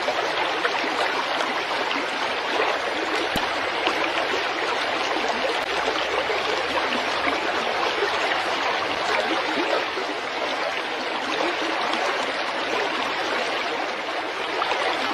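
Stream water running over stones, a steady rushing.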